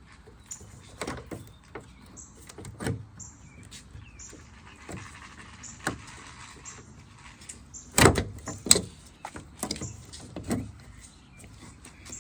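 Clicks, knocks and clatter of hands working inside a car door while fitting the door-latch rod into its plastic retaining clip, with two loud knocks about eight seconds in.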